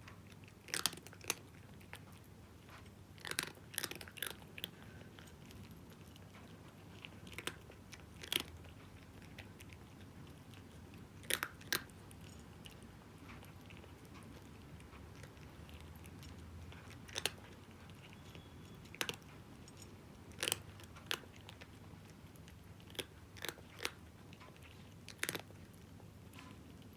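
A cat crunching dry kibble: sharp, crisp crunches come singly or in quick pairs and threes, with pauses of one to several seconds between bites.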